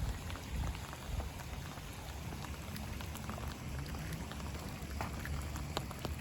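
Steady rain falling, with many small drops ticking close by over a low rumble.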